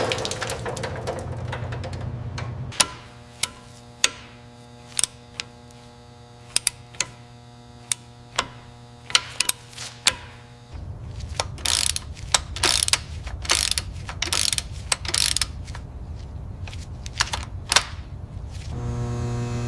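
Sharp, ratchet-like mechanical clicks at irregular spacing over a steady hum. From about halfway, a run of short hissing bursts comes in among the clicks.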